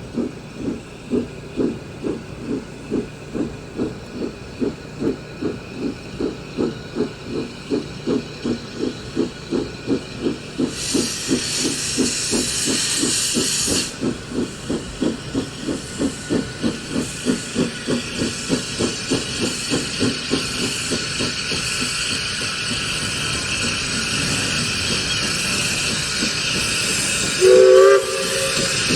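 Steam locomotive working a train, its exhaust beating about twice a second and gradually merging into a steady rumble. About eleven seconds in there is a burst of steam hiss lasting some three seconds. Near the end comes one short, loud blast on the steam whistle.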